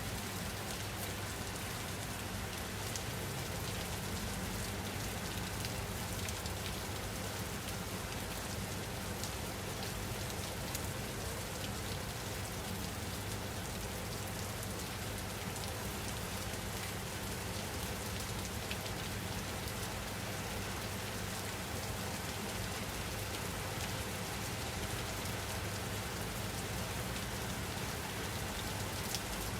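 Steady rain falling on a surface, a dense even patter of drops with no thunder.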